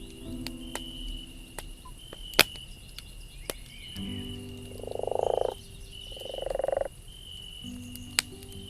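Campfire crackling with sharp pops, the loudest about two and a half seconds in. In the middle, a frog gives two buzzy, pulsed calls, each swelling louder, over a steady high insect-like tone.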